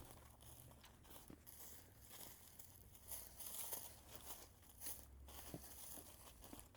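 Faint footsteps crunching and rustling through dry leaf litter and brush, uneven, with a few soft clicks.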